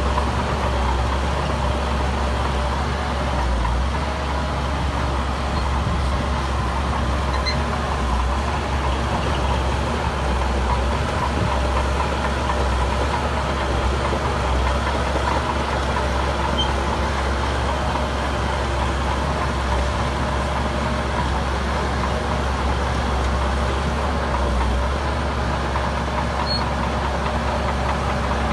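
Heavy diesel engine of construction machinery running steadily with a deep low rumble.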